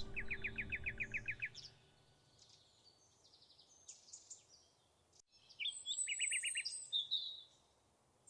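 Songbirds singing: a rapid run of about ten repeated notes at the start and again just past halfway, with scattered chirps and a high thin whistle between them.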